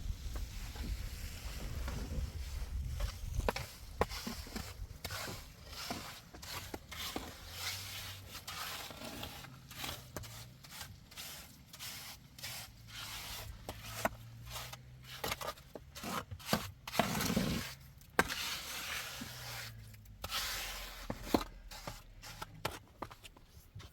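Repeated scraping and rubbing with scattered knocks, as of hand work on building materials, with a faint low hum through the middle.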